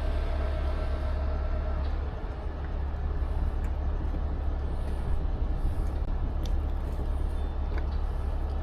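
Heavy rotator tow truck's diesel engine running steadily under a winch pull. A faint steady whine stops about two seconds in.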